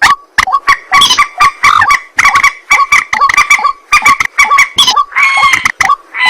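A waterhen (ruak-ruak) giving a loud, rapid series of short, clipped calls, several a second, turning denser and more ringing near the end.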